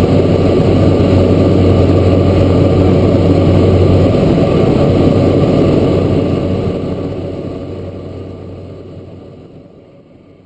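Cessna Grand Caravan's PT6A turboprop engine and propeller running steadily in flight, heard from the cabin. A low propeller hum stops about four seconds in, and the whole sound fades away over the last four seconds.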